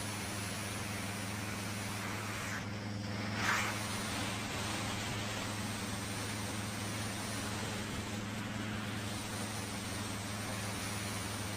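Harley-Davidson Fat Boy V-twin engine running at a steady, unchanging note under a constant rush of wind noise. A brief louder whoosh comes about three and a half seconds in.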